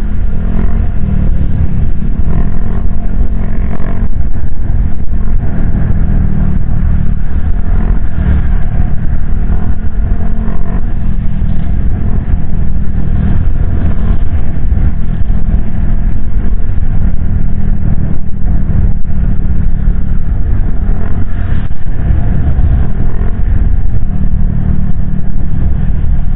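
Motorcycle ride heard through a helmet-mounted action camera's foam-wrapped external mic: a steady, loud low rumble of wind and road noise with the engine's hum underneath.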